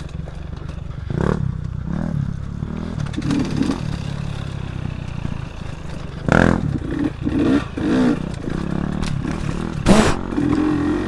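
Dirt bike engine running and revving as it is ridden, its pitch rising and falling, with a few sharp knocks and clatter, the loudest about six and ten seconds in.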